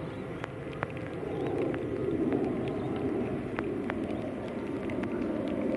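Steady rain falling, swelling a little about a second and a half in, with scattered sharp ticks of drops striking something close by.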